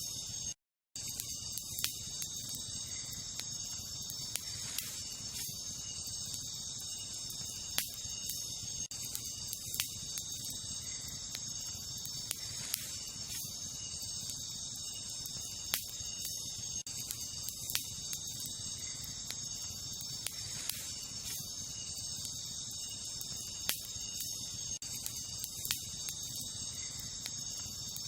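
Wood campfire crackling, with irregular sharp pops every second or so, over a steady high-pitched chorus of crickets. The sound cuts out completely for a moment under a second in.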